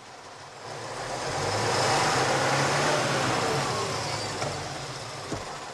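Heavy truck driving on a muddy forest track: a low steady engine hum under tyre and body noise that swells to a peak about two to three seconds in and then fades.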